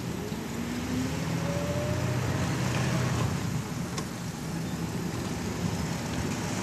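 Car engine running and road noise, heard from inside the moving car. The engine note climbs briefly in the first few seconds.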